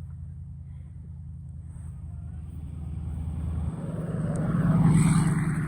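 A large vehicle's engine passing close, with a steady low engine hum and a growing rush of road noise, loudest about five seconds in and then easing off.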